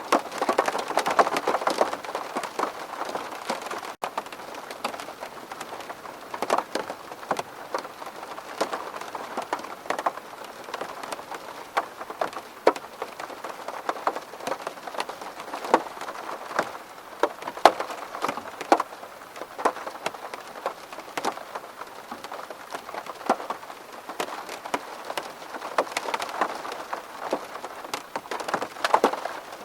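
Rain falling on a window pane: a steady patter of drops, with many individual louder drops ticking at irregular moments.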